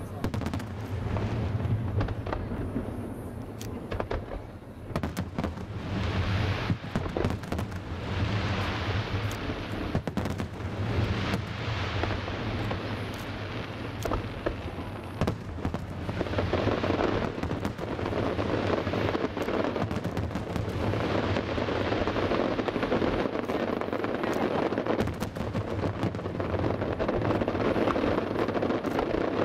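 Fireworks display: a continuous run of shell bursts with many sharp bangs, and stretches of dense crackling that swell and fade several times.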